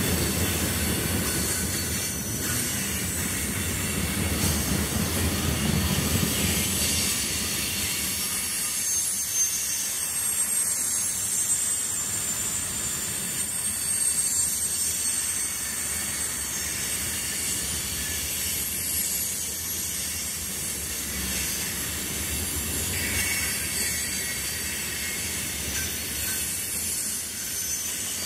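CSX freight train of covered hopper cars rolling past close by: a steady rumble of steel wheels on rail, heavier for the first several seconds, under a continuous high-pitched squeal from the wheels.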